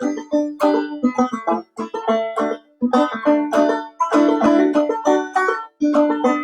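Clawhammer banjo played solo in an instrumental break, a run of quick plucked notes in phrases with brief pauses between them.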